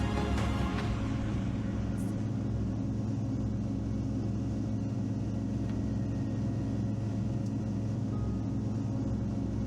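All-terrain vehicle's engine running steadily at cruising speed, a constant low drone, while background music fades out in the first second.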